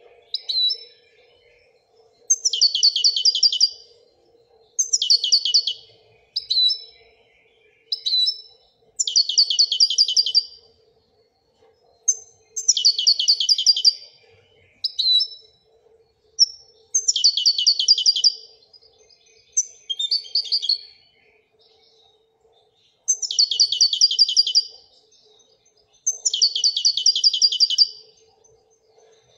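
Moroccan goldfinch (European goldfinch) singing in the 'wedaniya' song style. Short downward-sliding notes alternate with fast trilled phrases of one to two seconds, about seven trills in all.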